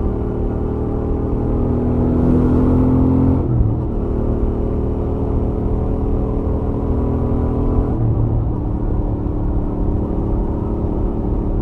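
Royal Enfield Interceptor 650's parallel-twin engine through its stock exhaust, running on a highway. The engine note climbs a little, then drops in pitch at a gearshift about three and a half seconds in, and drops again at a second shift around eight seconds in.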